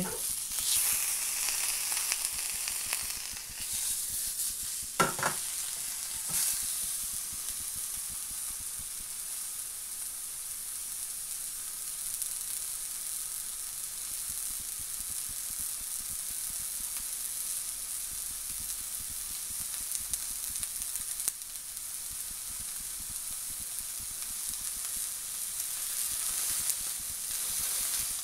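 Beef burger patty frying in a non-stick frying pan, a steady high sizzle, with a couple of sharp knocks about five and six seconds in.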